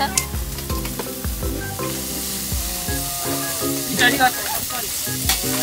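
Food sizzling as it fries, a steady hiss, under light background music of stepped, held notes.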